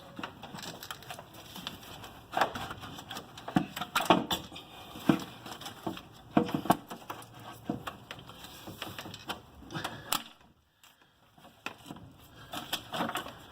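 Irregular clicks, taps and knocks of hard plastic engine parts being handled as hoses are pulled from their clips and the intake assembly is worked loose, with a short pause about ten seconds in.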